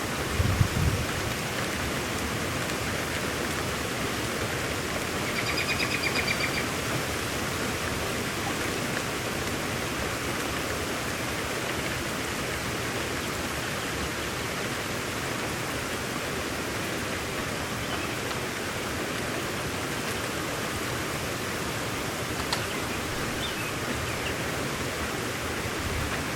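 Steady hiss of heavy rain. There is a low thump about half a second in, and a brief high trill around six seconds in.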